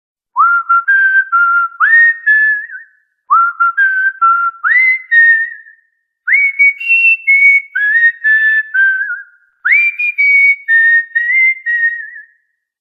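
A whistled tune in four short phrases, each opening with a quick upward swoop and then stepping through clear, pure notes, with a short silent gap between phrases. The second phrase repeats the first, and the last two share a higher melody.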